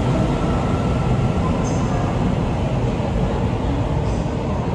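Taiwan Railways EMU800 electric commuter train departing, its running noise a steady low rumble as it moves off along the platform.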